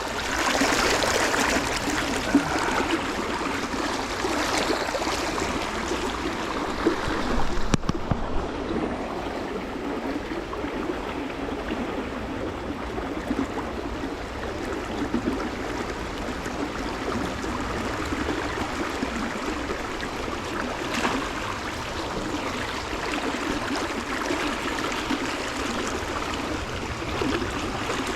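Stream water flowing steadily, a little louder and brighter for about the first eight seconds.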